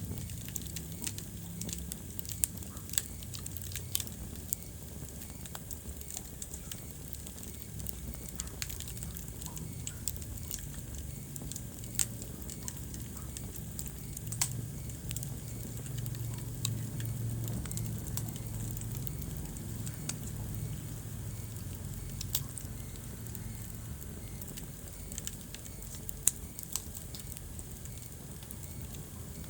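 Wood fire burning in a fireplace, crackling with irregular sharp pops over a low, steady rush of flame that swells for a while in the middle.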